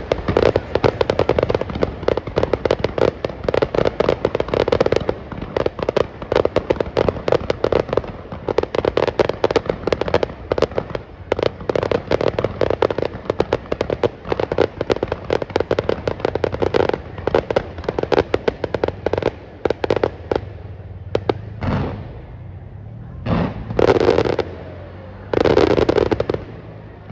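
Fireworks going off in a dense, rapid barrage of bangs and crackles, thinning after about twenty seconds into a few separate longer bursts.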